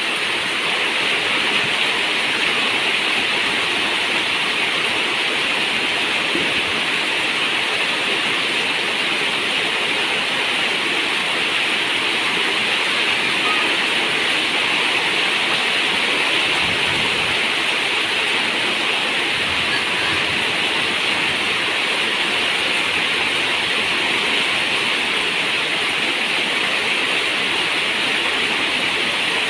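Steady rain falling on a zinc roof, a dense, even hiss with no letup.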